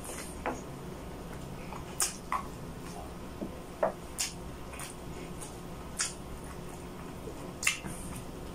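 Close-up wet chewing and lip-smacking while eating saucy pork adobo by hand, with sharp smacks every second or two, the loudest near the end, over a steady low background hum.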